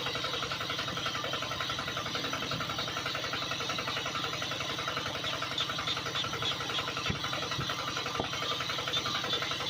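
A small motor running steadily with a fast, even buzz, with a few light knocks in the second half.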